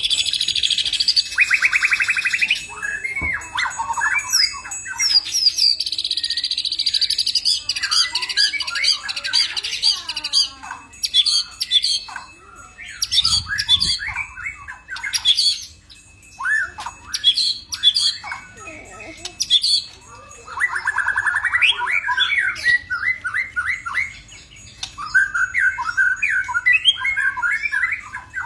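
White-rumped shama singing a long, varied song of rapid buzzy trills, chattering rattles and clear whistled notes, in phrases broken by short pauses.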